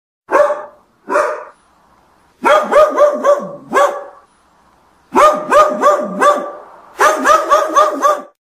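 A dog barking: two single barks, then three quick runs of several barks each.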